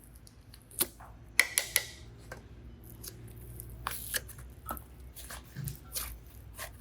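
Hands handling clay and small craft pieces: a series of sharp clicks and taps, with short scraping rustles in between.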